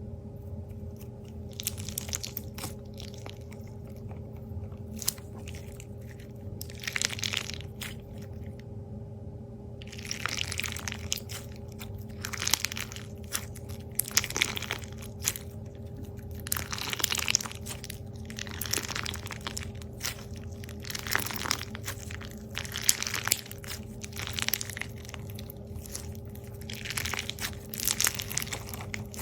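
Slime being squeezed and pressed by hand, giving irregular crunchy, crackling bursts that come thicker after about ten seconds, over a faint steady hum.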